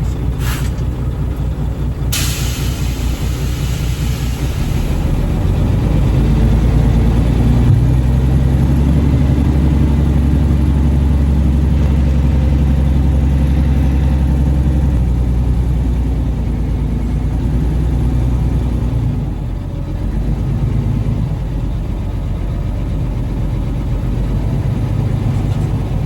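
Triaxle dump truck's diesel engine running, with a sharp hiss of air about two seconds in. The engine then revs up and holds while it drives the hydraulic hoist to raise the loaded bed of sand. It eases back down after the middle.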